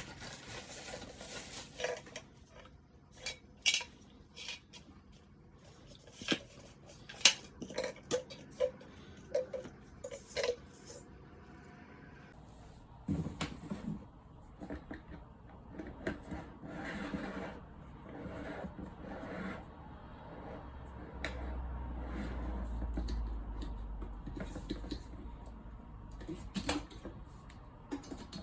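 An electric kettle and its parts being handled: a scattered series of clinks, knocks and light rattles, with a low rumble for a few seconds in the second half.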